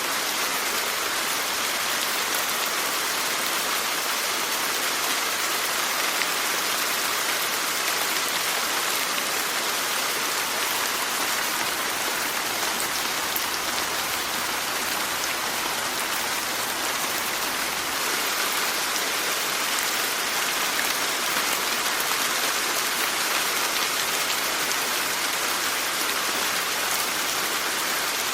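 Steady rain falling, an even hiss with fine scattered drop ticks, no change in intensity.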